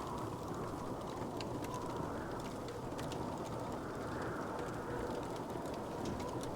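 Wood fire crackling, with scattered small pops and snaps over a steady low rush.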